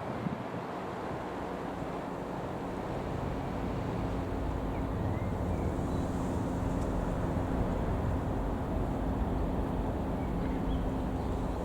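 Mooney M20J's single piston engine and propeller droning as the light aircraft flies over. It is a steady drone that grows a little louder over the first few seconds, with wind rumble on the microphone.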